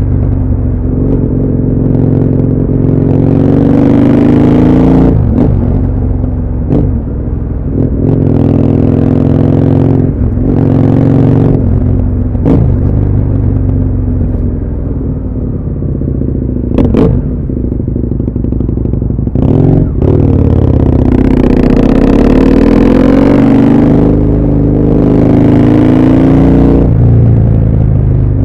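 Husqvarna Nuda 900R's parallel-twin engine under way, its revs rising and falling over and over as the rider accelerates and rolls off the throttle, with wind noise on the microphone.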